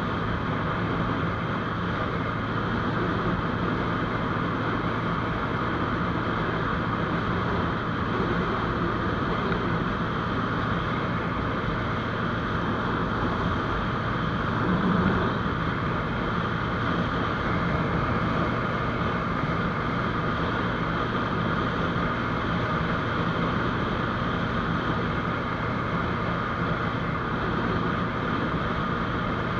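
GPX GR200R motorcycle's single-cylinder engine running at a steady cruising speed, with wind and road noise. The engine pitch and level hold steady throughout.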